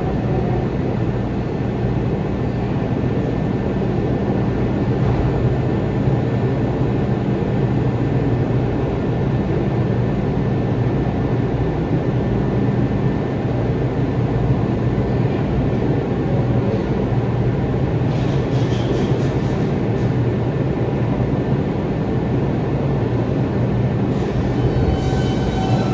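R142 subway train running on the track, a loud steady rumble. Thin high-pitched tones start near the end.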